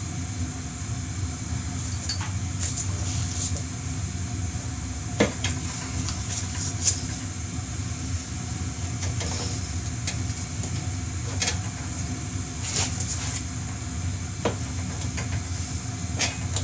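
A manual tire changer's mount bar working a tire bead over a motorcycle wheel rim: scattered sharp clicks and knocks over a steady low hum.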